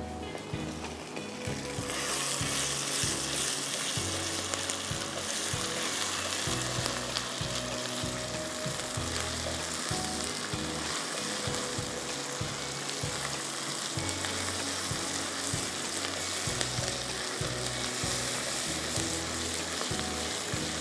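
Chopped onions with cumin seeds and a bay leaf frying in oil in a wok, sizzling steadily as a spatula stirs them. The sizzle gets much louder about two seconds in.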